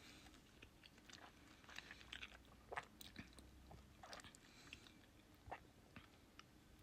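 Faint chewing and mouth noises of a person eating a bite of bacon, with a few soft clicks scattered through.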